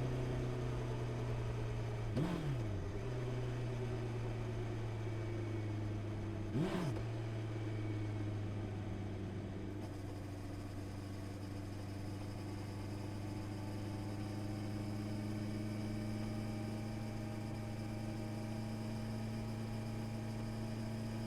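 Honda CB650R inline-four engine settling down, its pitch falling gently at first and then running steadily at low revs, with two short louder moments about two and six and a half seconds in.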